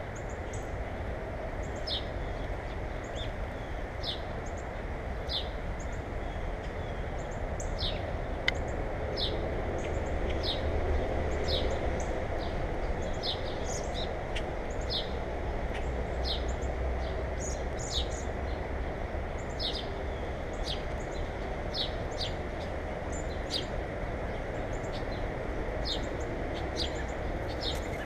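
Small birds chirping: a long series of short, high chirps, each a quick downward slide, one or two a second, over a steady low rumble.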